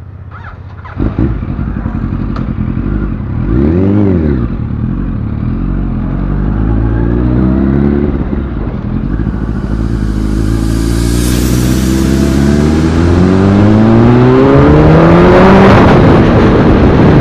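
Yamaha R1 inline-four engine idling, blipped once about four seconds in, then pulling away and accelerating, its pitch climbing steadily through the second half.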